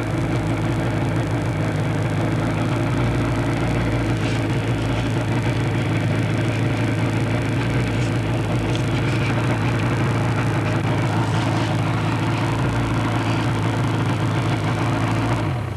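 Motorcycle engine running steadily at an even pitch, close to the microphone; it cuts off abruptly at the very end.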